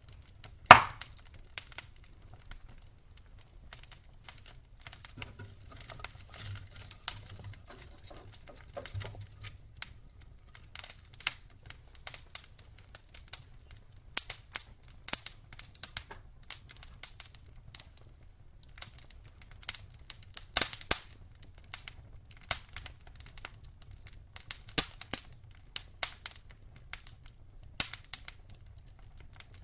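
Campfire crackling: burning wood giving off irregular sharp pops and snaps, the loudest a little under a second in, with many smaller ones scattered at uneven intervals.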